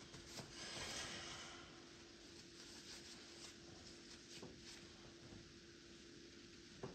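Faint scratchy strokes of a paintbrush on canvas, strongest about a second in, over a low steady hum.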